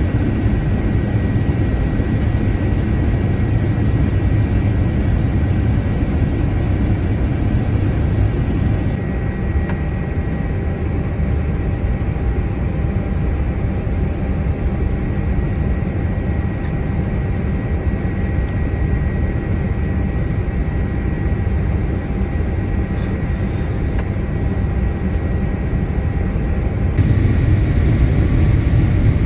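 Steady cabin noise of a Boeing 787-8 airliner, the rush of its jet engines and airflow heard from inside the cabin, weighted low with a few faint steady tones. The sound changes abruptly about nine seconds in and again near the end.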